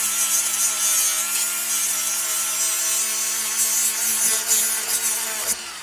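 Handheld rotary power tool running steadily under load, grinding or cutting away material so the new brake bracket fits. Near the end it is switched off and winds down with a falling whine.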